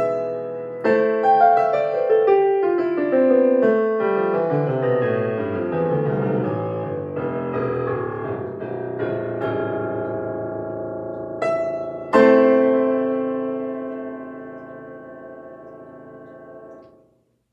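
Solo piano playing the closing bars of a piece: a long run of notes stepping down in pitch, a short high note, then a loud final chord about twelve seconds in that is held and fades away before stopping near the end.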